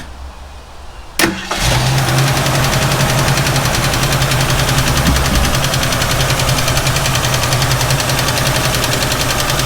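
1967 Ford Mustang engine restarted warm: a click, then it catches almost at once and settles into a steady idle. A fast, even valve tick runs through the idle.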